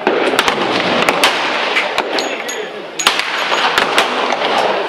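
Gunshots at a shooting range: a dozen or more sharp, irregularly spaced reports from several guns, some close together, over a steady background hiss.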